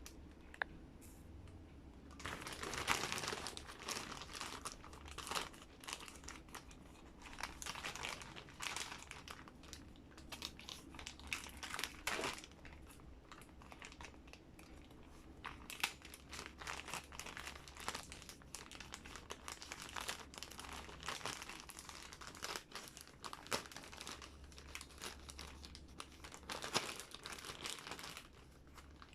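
Parcel packaging being opened by hand: irregular crinkling and crackling with some tearing.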